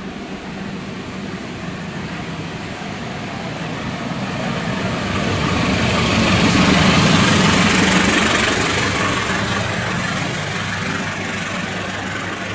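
Diesel-hauled passenger train passing: engine hum and the noise of wheels on rails grow louder to a peak about seven seconds in, then fade.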